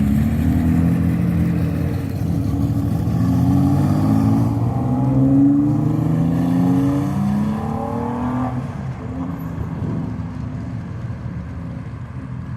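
2017 Ford GT's twin-turbo V6 accelerating hard, its note climbing in pitch again and again as it shifts up through the gears. After about eight seconds the note falls away and fades as the car draws off.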